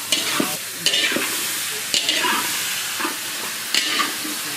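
Vegetables sizzling as they fry in hot oil in a pan, with a spatula stirring them in four strong strokes over the steady sizzle.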